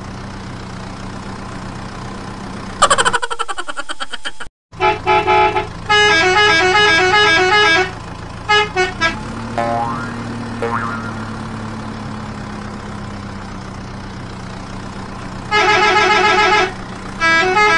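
A musical vehicle horn honks a quick tune of alternating notes in three runs, over a steady low engine-like drone. A loud falling sound comes about three seconds in and cuts off abruptly.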